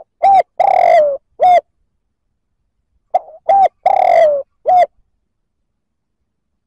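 Spotted dove cooing: two phrases about three seconds apart, each a quick lead-in note, a short coo, a longer coo that falls in pitch, and a final short coo.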